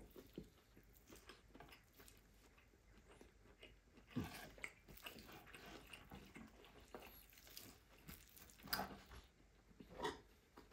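Faint chewing of a cowboy ribeye steak: soft mouth clicks and smacks, with a few louder bites about four, nine and ten seconds in.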